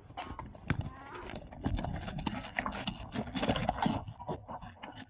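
Irregular clatter of hooves knocking and scuffing on hard ground, with short animal sounds mixed in.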